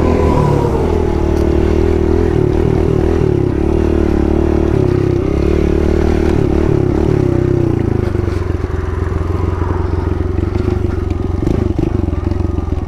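Kawasaki KLX110 pit bike's small four-stroke single-cylinder engine running steadily under throttle while riding, easing off to a lower, softer note about eight seconds in, with a few clattering knocks near the end.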